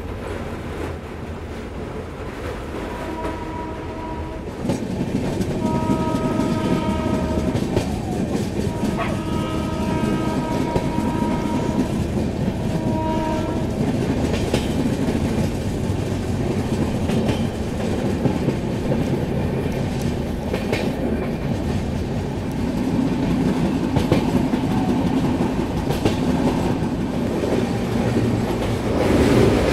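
Passenger train running along the track, with rumble and clickety-clack from the coaches. The WAP-4 electric locomotive's horn sounds four times between about 3 and 14 seconds in: a short blast, two longer ones and a short one.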